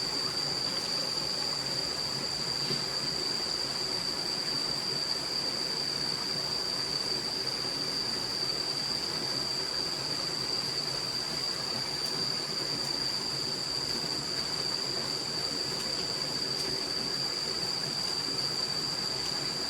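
Steady rushing of a forest stream, with a continuous high-pitched whine held above it.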